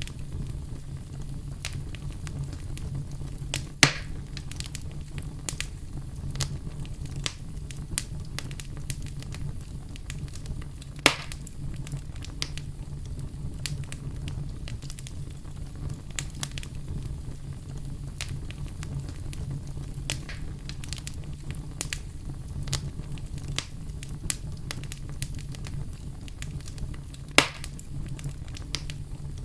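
Fire burning in a fireplace, crackling steadily with many small clicks over a low rumble, and three sharp loud pops: one about four seconds in, one near the middle and one near the end.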